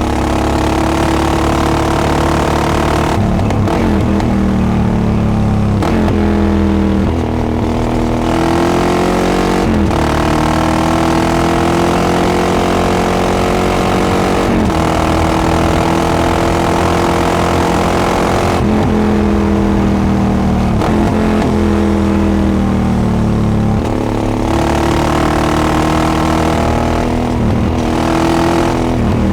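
Yamaha XT660X single-cylinder four-stroke engine breathing through a Devil carbon exhaust, under way: the engine note climbs and drops again and again as the bike is accelerated through the gears and eased off, with short breaks at the shifts.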